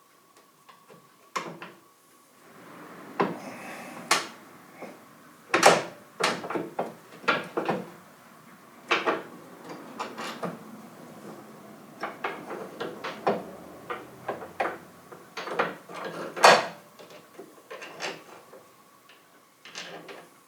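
Hand tools and metal skid-steer parts being handled, giving irregular knocks, clicks and clanks, some louder than others, over a faint steady hum.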